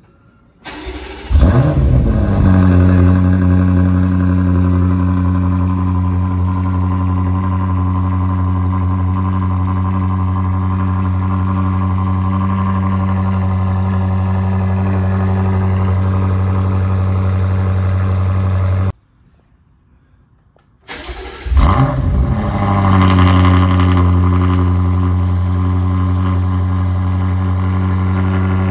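BMW F90 M5's 4.4-litre twin-turbo V8 cold-starting through a resonator-delete X-pipe exhaust: a brief crank and a loud flare, then a steady high idle. After a short silence about 19 seconds in, it cold-starts again with the secondary cats also deleted, flaring and settling into the same steady idle.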